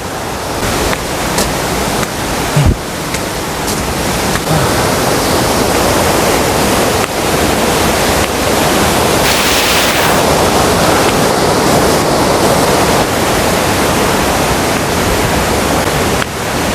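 Rushing water of a mountain waterfall and stream, a loud steady rush that swells over the first few seconds and then holds.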